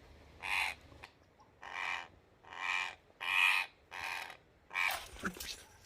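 A parrot giving about six harsh squawks in a row, roughly one every second, while it is held and freed from the fish net it was trapped in.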